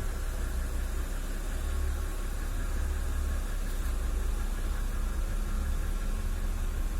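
BMW N52B25 2.5-litre straight-six idling steadily with a knocking noise, which the owner cannot place: a hydraulic lifter, the camshaft bearing saddles or the bearing shells.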